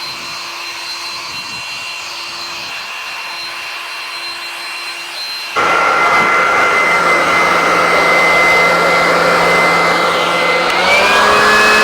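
Electric blower (air dryer) running with a steady whine and rush of air. About halfway through it suddenly gets louder, with new higher whining tones, and near the end its pitch steps up a little.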